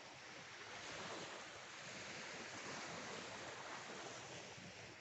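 Sea waves washing on the beach: a steady rushing that swells slowly and eases off near the end.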